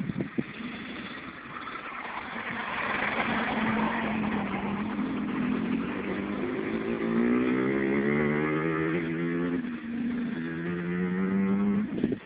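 Dirt bike engine running and revving. It grows louder a couple of seconds in, then its pitch climbs, dips briefly and climbs again.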